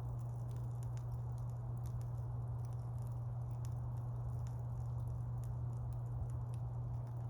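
Wood campfire burning, with a steady low rush of flame under frequent small, sharp crackles and pops of burning wood.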